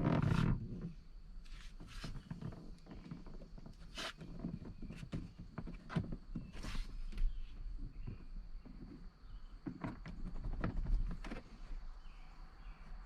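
Scattered clicks and knocks of handling work, with a louder thump in the first half-second.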